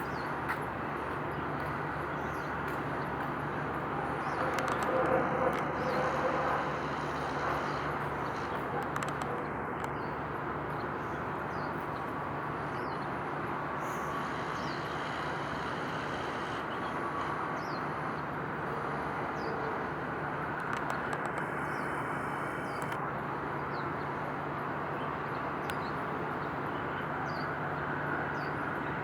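Steady distant rumble of engines and traffic under a constant low hum, with a few faint high chirps now and then.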